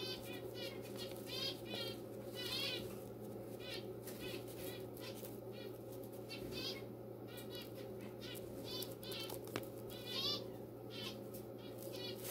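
A small bird chirping in quick bursts of short, high notes, over a steady low hum.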